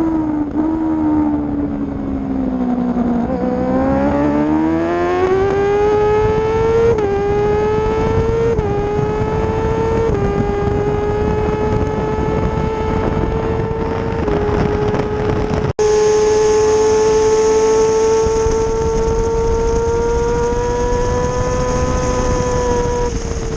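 Kawasaki ZX-6R 636's inline-four engine heard onboard, with wind noise. It slows, then pulls hard through several quick upshifts, each a step down in pitch. It then holds high revs nearly steady, with a brief dropout about two-thirds of the way through. The revs fall as the throttle closes near the end.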